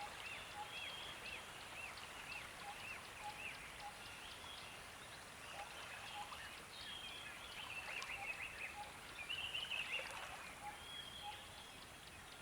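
Birds chirping softly: a quick arched chirp repeating about three times a second at first, other twittering calls and soft lower single notes, over a faint steady hiss. The chirping grows a little busier and louder near the end.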